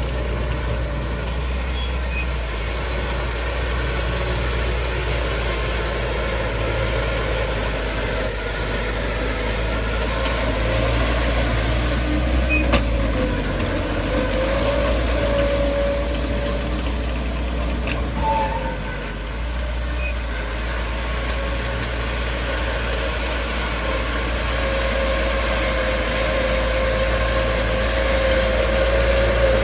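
Heavy diesel construction machinery running steadily under load, with a whine that shifts in pitch now and then.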